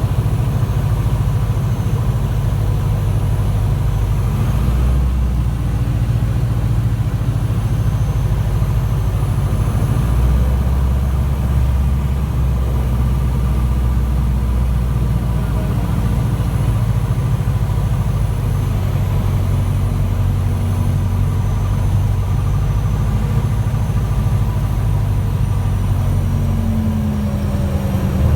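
Robin DR400 Regent's four-cylinder Lycoming O-360 engine and propeller droning steadily on the approach to land, the pitch shifting a few times with throttle changes and dipping then rising again near the end.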